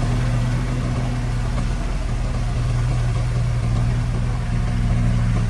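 Diesel engine of heavy earthmoving equipment running steadily at a constant low pitch.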